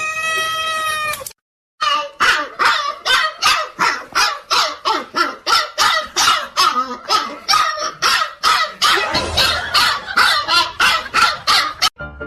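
A cat gives one long, held yowl. Then, after a short break, a dog barks over and over at about three barks a second.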